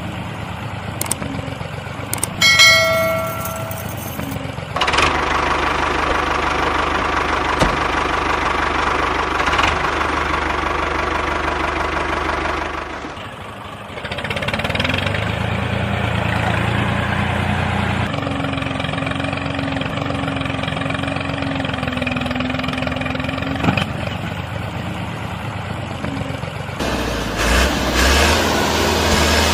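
Miniature model tractor's drive running, a steady motor sound that changes abruptly at cuts a few times. A short pitched tone sounds a few seconds in, and later a low hum with a held steady tone.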